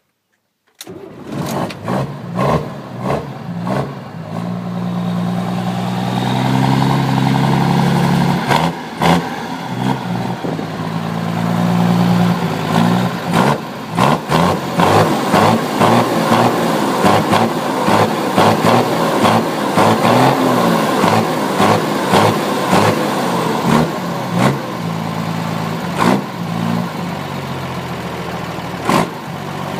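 Mercedes-Benz 1117 truck's diesel engine running and being revved, its pitch rising and falling several times, with frequent sharp clicks. The engine sound begins suddenly about a second in.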